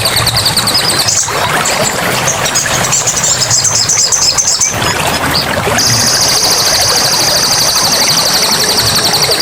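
Forest soundscape: a steady rush of running water under high, rapidly pulsing buzzy trills. Scattered bird chirps fill the first half, and one long trill starts about six seconds in and runs to the end.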